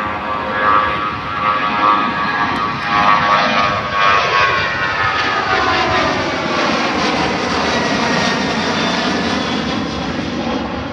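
Airliner's jet engines at full takeoff power passing low overhead, the engine whine sweeping down in pitch as it goes by.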